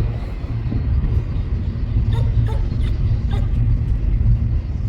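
Deep, steady rumble of a passing freight train. Four short, pitched calls break in between about two and three and a half seconds in.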